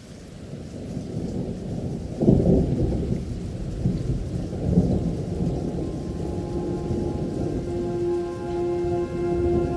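Thunder rumbling with rain, swelling loudest about two seconds in and rolling on after. Sustained, slow musical tones fade in from about six seconds.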